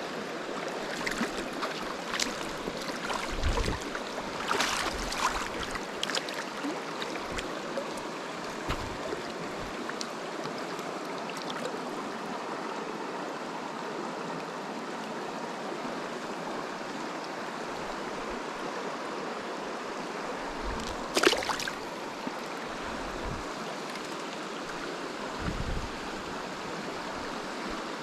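Small mountain creek flowing: a steady rush of water, with a few brief clicks and knocks over it. The loudest knock comes about three-quarters of the way through.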